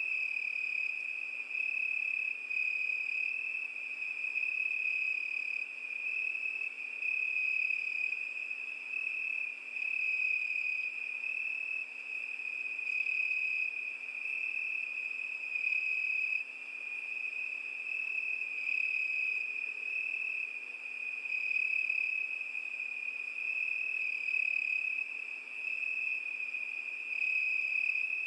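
A cricket singing: one continuous high-pitched trill that never breaks, pulsing slightly in loudness, with a fainter higher overtone.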